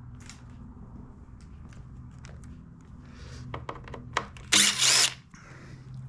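Cordless drill/driver spinning briefly, for about half a second, to back out a hex-head screw holding the blower's cover, after a few light clicks. A steady low hum runs underneath.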